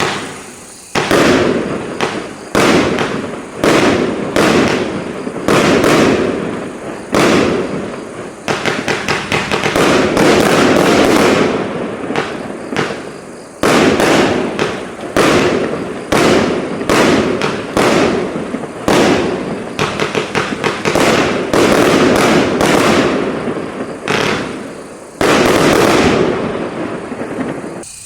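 A consumer firework battery, the JF9022 Gold Silver Blue Red Streetbox, firing a rapid string of shots and bursting bangs, about one a second, with some longer, denser stretches of overlapping bursts.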